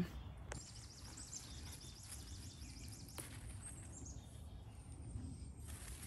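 Faint outdoor garden ambience with a small bird singing a rapid series of high, falling notes, about five a second, for about three seconds. Two faint clicks, about half a second in and about three seconds in.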